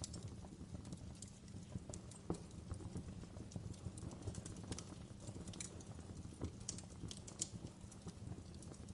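Wood fire burning in a fireplace, crackling with irregular sharp pops and snaps over a soft low rumble of the flames.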